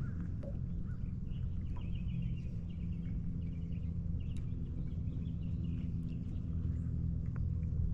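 A bird's rapid chattering call over the steady low drone of a boat motor.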